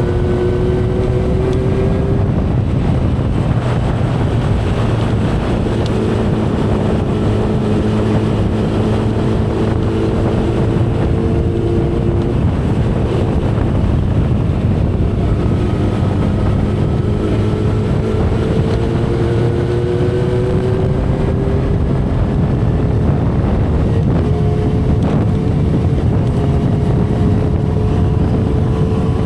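2012 Kawasaki Ninja ZX-10R's inline-four engine running at expressway speed, with heavy wind rush over the microphone. The engine note climbs slowly a few times, easing briefly in between.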